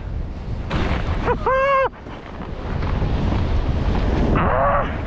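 Wind buffeting the microphone as a skier descends at speed, a steady rushing rumble. About a second and a half in comes a short wordless high yell, and near the end a shorter vocal sound.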